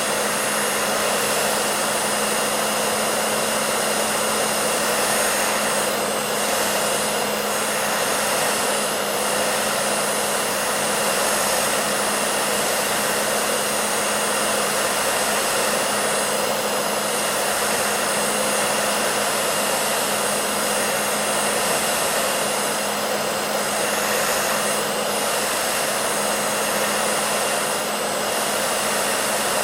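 Hair dryer running steadily: an even rushing airflow with a constant motor hum beneath it, used as white noise.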